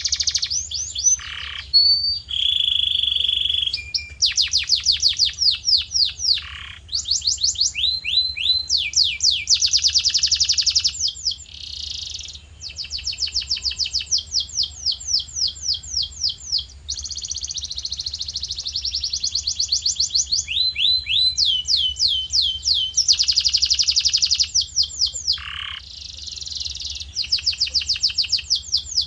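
Male domestic canary singing a long continuous song: quick trills of rapidly repeated falling notes, switching to a new repeated note every second or two, with a short steady whistle about two seconds in.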